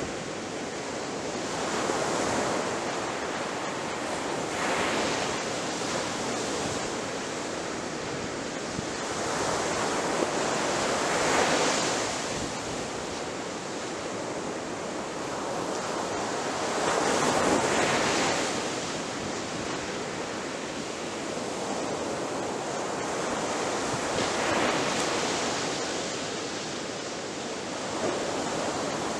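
Ocean waves breaking and washing in, a steady rushing surf that swells and ebbs with each wave, about five or six surges in the span.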